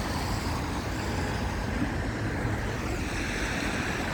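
Steady road traffic noise from passing vehicles, with a low rumble and a continuous hiss.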